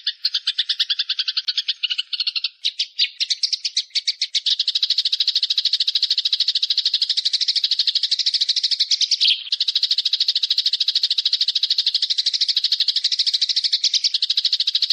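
Recorded songbird giving a long, very rapid high-pitched trill of repeated notes. The pattern of the trill changes about two and a half seconds in, then runs on steadily.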